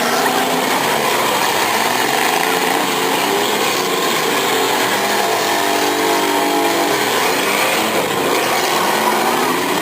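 Demolition derby car engines running loud and steady, several at once, with one engine holding a steady pitch for a couple of seconds about halfway through.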